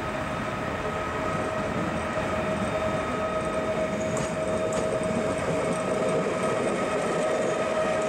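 Passenger train running past on the track, a steady rumble with a steady high whine over it and a couple of faint clicks about halfway through.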